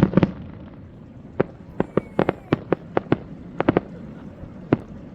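Fireworks shells bursting: the tail of a rapid barrage of bangs right at the start, then about a dozen separate sharp bangs at irregular intervals over the next few seconds.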